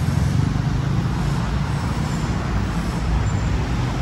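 Motor vehicle engine idling steadily, a low, even rumble.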